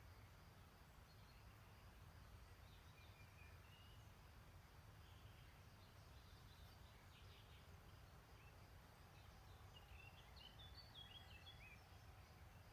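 Faint, distant songbirds singing and calling: a few short chirps early on, then a busier phrase of song about ten seconds in, over a steady low rumble.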